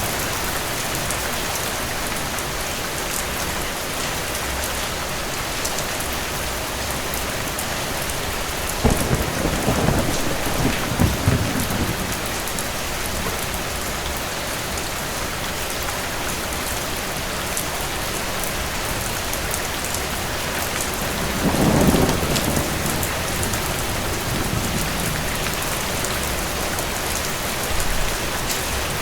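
Steady rain falling, with two low rolls of distant thunder, one about nine seconds in and another about twenty-two seconds in.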